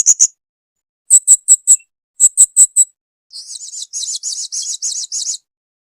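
Blue-crowned hanging parrot (serindit) calling: three quick bursts of four or five very high-pitched chip notes, then a longer, buzzier run of notes that stops about five and a half seconds in.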